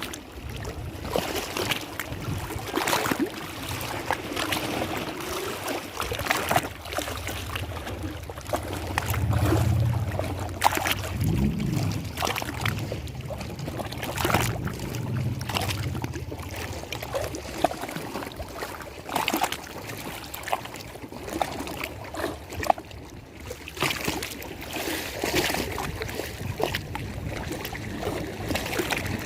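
Lake water sloshing and splashing in irregular slaps, with a low hum underneath from about four to eighteen seconds in.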